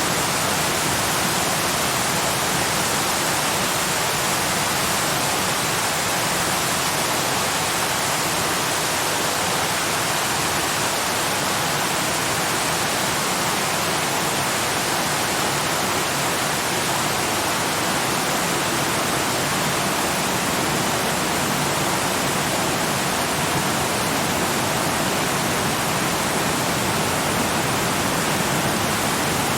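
Waterfall rushing in a steady, unchanging hiss, heavy in the higher tones with little low rumble.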